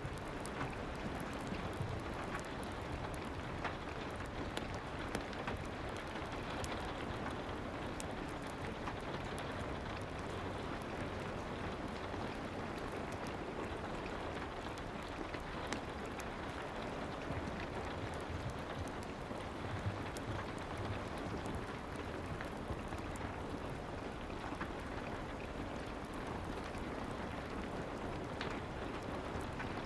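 Soft, steady rain ambience, with scattered faint clicks and crackles throughout.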